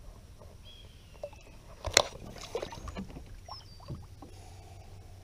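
A sharp knock about two seconds in, followed by a few lighter knocks, with faint high whistles, typical of gear or a paddle knocking on a small boat on the water.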